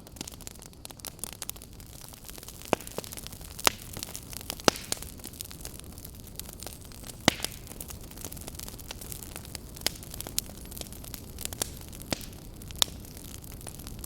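Log fire crackling: irregular sharp pops and snaps, a few of them louder, over a steady low hiss.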